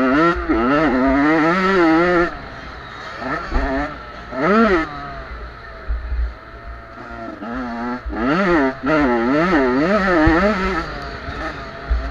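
Small two-stroke motocross bike engines racing past, revving up and down rapidly in bursts as the throttle is worked, loudest at the start, about four seconds in and again from about eight seconds in.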